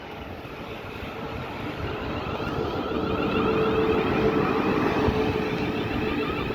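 Electric multiple-unit train approaching along the platform, its rumble growing steadily louder, with steady humming tones and a whine from its traction equipment strongest in the second half.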